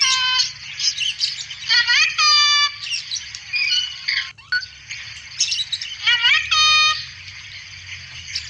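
Cockatoo calling out its talking phrase 'assalamualaikum' in a rising, nasal mimicked voice: once at the start, again about two seconds in and once more about six seconds in. Behind it runs a dense, high twittering of small birds.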